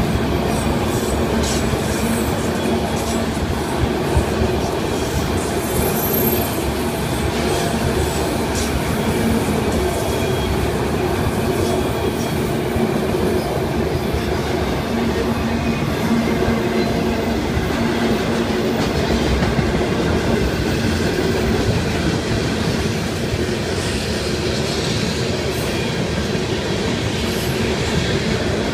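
Freight cars (autoracks, then a tank car and flatcars) rolling past steadily: a continuous rumble of steel wheels on rail, with scattered clicks of wheels passing over rail joints.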